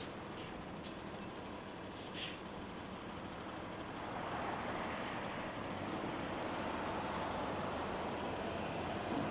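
Airbus A220-300's Pratt & Whitney PW1500G geared turbofan engines heard as a steady rushing noise, growing louder about four seconds in as the jet draws nearer.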